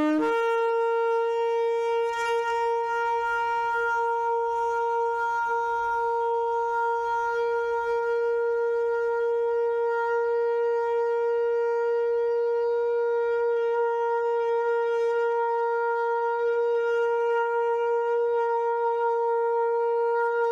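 Shofar sounding tekiah gedola, the long final blast: one steady held note without a break, stepping up in pitch at the very start.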